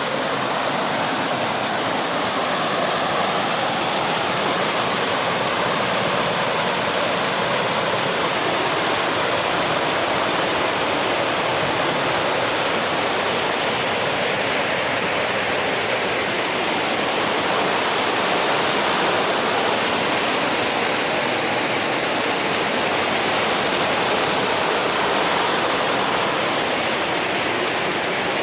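Rushing mountain water, a loud, steady hiss that holds evenly throughout.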